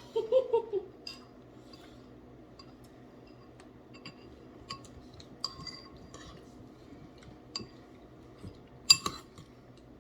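Spoons clinking against bowls as people eat: scattered light clinks every second or so, with a sharper, louder clink near the end.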